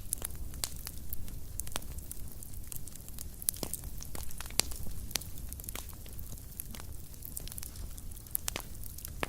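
Fire in a fireplace crackling: irregular sharp pops and snaps over a low steady rumble of the flames. The loudest pops come about three and a half and four and a half seconds in.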